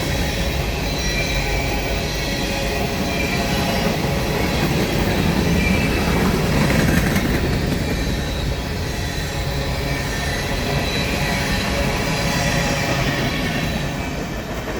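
Empty grain hopper cars of a freight train rolling past: a steady rumble of wheels on rail with a faint high wheel squeal, dropping off slightly near the end as the tail of the train goes by.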